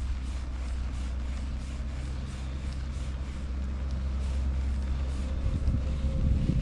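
A motor engine running at a steady low hum, with wind buffeting the microphone and growing rougher near the end.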